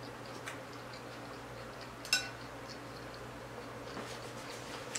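Faint chewing of a bite of chicken street taco, with small wet mouth clicks. One sharper clink with a brief ring about two seconds in.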